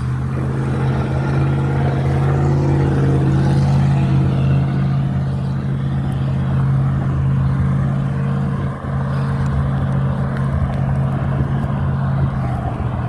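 A motor vehicle engine running steadily at a constant low pitch, with a brief dip about nine seconds in.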